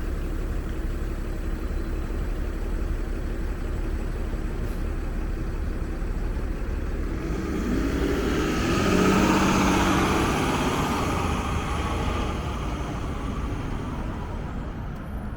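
Nova Bus LFS city bus pulling away and driving past, its engine note swelling to its loudest about nine to ten seconds in and then fading, over a steady low traffic rumble.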